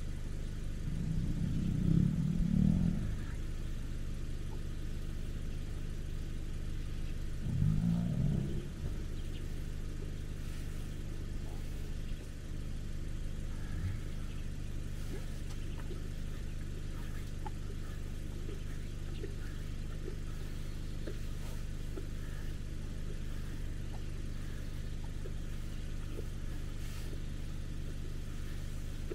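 Safari vehicle engine idling with a steady low hum. Two louder low sounds come over it, about two seconds and eight seconds in.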